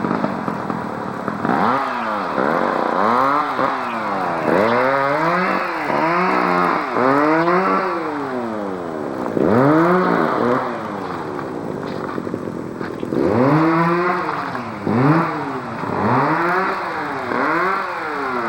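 An engine revved up and let back down again and again, more than a dozen times, with a short lull about two-thirds of the way through.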